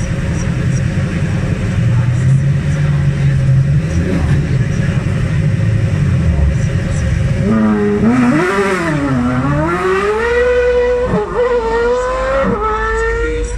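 A sports car's engine runs low and steady at the start line. About halfway through it launches and pulls away hard, its pitch climbing and falling several times, with sharp drops at the gear changes near the end.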